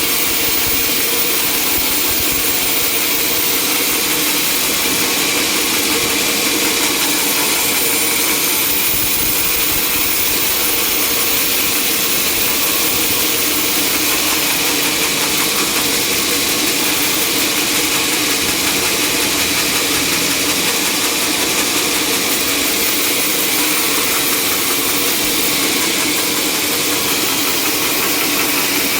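Sawmill machinery running steadily, a constant noisy drone with a steady hum underneath.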